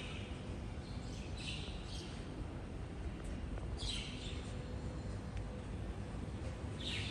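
A bird giving a few short high calls, each a quick downward sweep, a couple of seconds apart, over a steady low background rumble.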